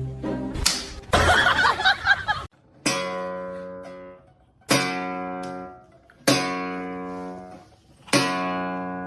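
Guitar music: after a busier, noisier couple of seconds, four strummed chords are each struck and left to ring out and fade, roughly one every one and a half to two seconds.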